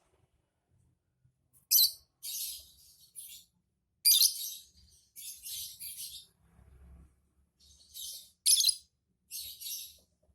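Lovebird chattering in short bursts of shrill, high chirping, about nine bursts with brief gaps between them. The sharpest bursts come about two seconds in, about four seconds in and near the end.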